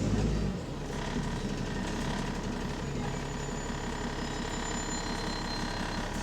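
Bus engine running with a rapid, steady puttering from a leaking exhaust.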